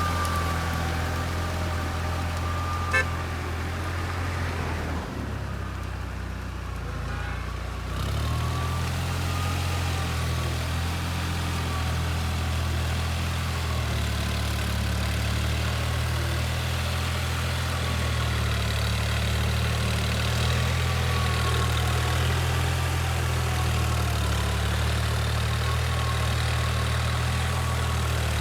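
A vehicle engine running steadily with a deep hum, its note shifting once about eight seconds in, and a single short click about three seconds in.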